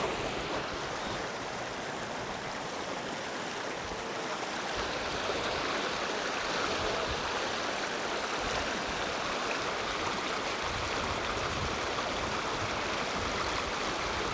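Small rapids of a stream rushing between rocks: a steady rush of water that grows a little louder about four seconds in.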